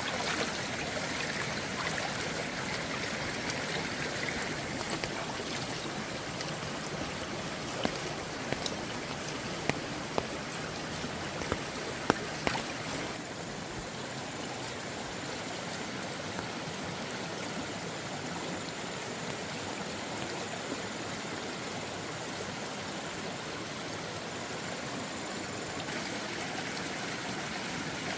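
Steady rushing water noise with a few sharp clicks and knocks about a third of the way in, the water easing slightly just after.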